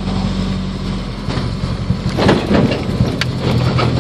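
Car engine running loudly with its exhaust off, heard from inside the car while driving. Its steady note breaks up about a second in, there is a brief rougher burst a little after two seconds, and it then settles at a lower pitch.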